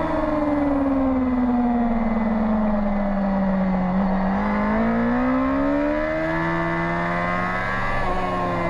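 Racing motorcycle engine at speed on track, heard from the passenger seat. The revs fall steadily for about four seconds, then climb again for about four seconds, with a brief break in pitch near the end.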